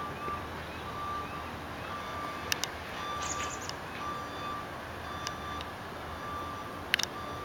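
A vehicle's reversing alarm beeping steadily, about one beep a second, over a low engine rumble, with two sharp knocks partway through.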